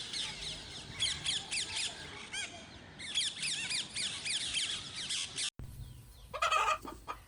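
A group of parrots chattering, with rapid, high, downward-sweeping squawks and chirps that stop abruptly about five and a half seconds in. A few lower, short sounds follow near the end.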